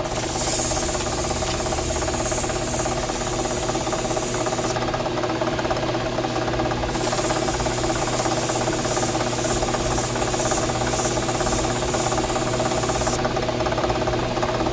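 A machine running steadily with an even hum, overlaid by a high hiss that cuts off about a third of the way in, comes back about halfway and stops again near the end.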